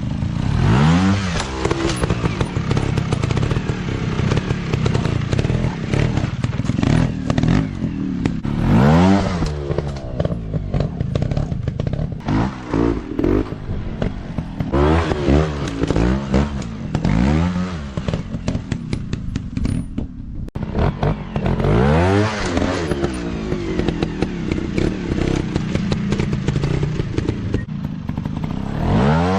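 Dirt bike engines revving hard, the pitch climbing and dropping back again and again as the bikes ride through the course.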